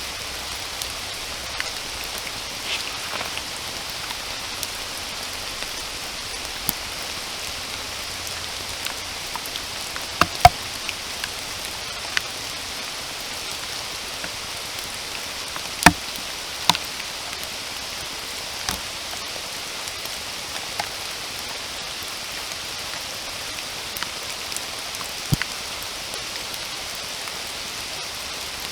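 Steady rain falling in a forest, an even hiss with scattered sharp drop impacts close by, the loudest about ten and sixteen seconds in.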